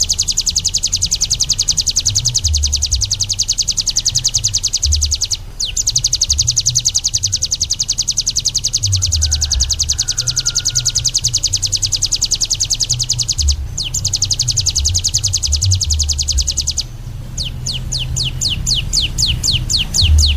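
A songbird sings a long, very fast high trill of evenly repeated notes, broken by two short pauses, about five and a half and thirteen and a half seconds in. Near the end it changes to slower, separate rising sweeps. A low rumble runs underneath.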